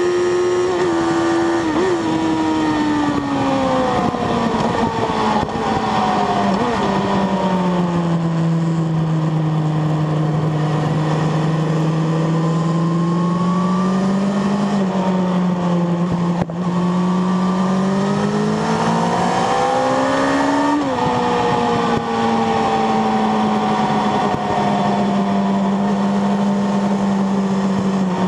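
Sport motorcycle engine heard onboard at track speed: its pitch falls as the bike slows for a bend, holds steady through the corner, then climbs under acceleration and drops sharply about three-quarters of the way through at a gear change, easing down again after it. A constant rushing noise runs underneath.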